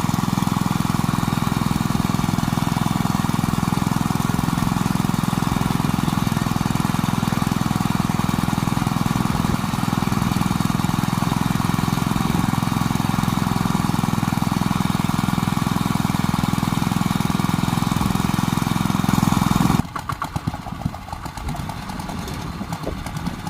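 A small engine on farm machinery runs steadily at a constant speed, then cuts off abruptly about 20 seconds in, leaving a much quieter, uneven sound.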